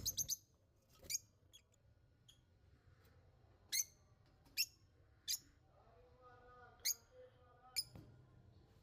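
Small birds chirping: single short, high chirps every second or so, with a softer, lower warbling call near the end.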